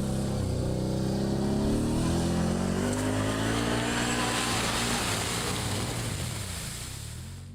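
ATV engine running and accelerating, its pitch rising over a couple of seconds, then fading away before the sound cuts off abruptly at the end.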